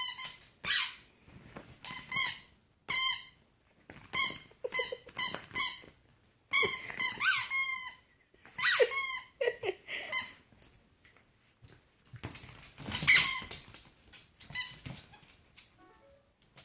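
Dog chewing a squeaky toy, setting off many short, high squeaks in quick runs, with a pause of a couple of seconds late on.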